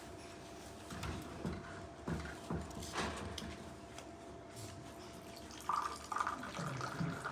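Green mint tea poured from a teapot held high into a small tea glass, the stream splashing. A few soft knocks come in the first half, and near the end a filling tone rises as the glass fills.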